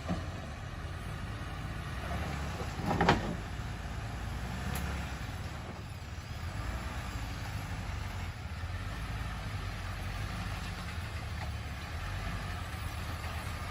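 Off-road vehicle engine running with a steady low rumble, with one brief louder burst about three seconds in.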